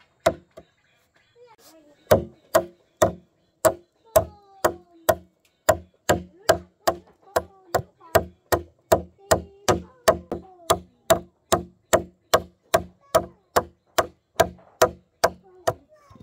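Chopping with a blade against wood: sharp, even strokes at about two a second, after a short pause near the start.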